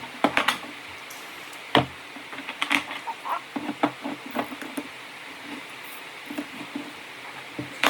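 Scattered light clicks and knocks of small parts being handled while a go-kart engine's carburetor is taken apart on a workbench for cleaning.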